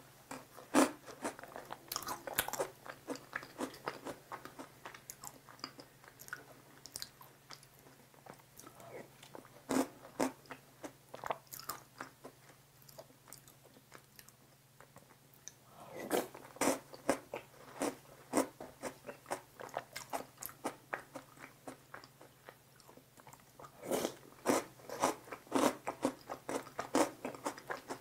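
Chewing and crunching of Maltesers malted milk balls soaked in fresh cream, with crisp crunches that come in bursts separated by quieter stretches of chewing.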